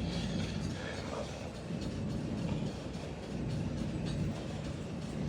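Steady low hum and rumble of laundromat machines running, with no clear single event standing out.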